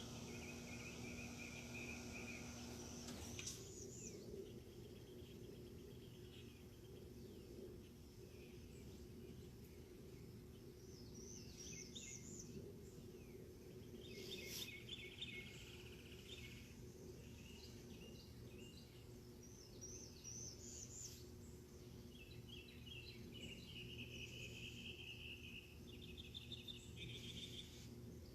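Birds singing: repeated short trills and quick sweeping chirps come and go in several bouts. A faint steady low hum runs underneath.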